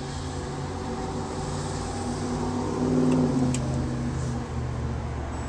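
A car engine running as the car moves past, growing louder to a peak about three seconds in, with a couple of sharp clicks just after.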